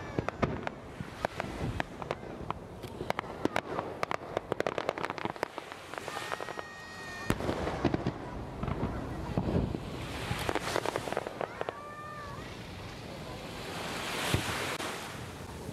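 Fireworks display: a dense crackling and popping of bursting shells for the first several seconds, then a slower series of separate bangs.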